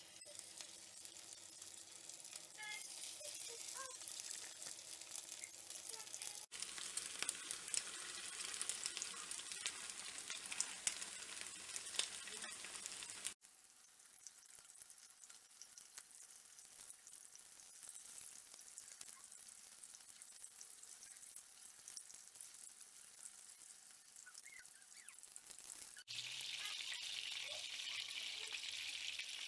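Food sizzling in a hot frying pan, in several short shots cut together: the sizzle jumps in level at each of three cuts, louder in the middle and near the end, quieter in between.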